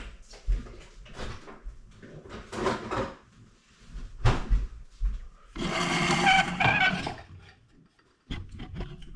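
Knocks and clatter of kitchen items being handled and set down, with a louder, denser rattling noise lasting about a second and a half past the middle.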